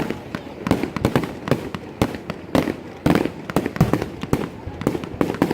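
Fireworks exploding in a rapid, irregular string of bangs, about three a second.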